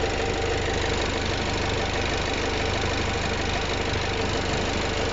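Renault Mascott's 3.0-litre ZD3 diesel engine idling steadily with an even, rapid diesel clatter.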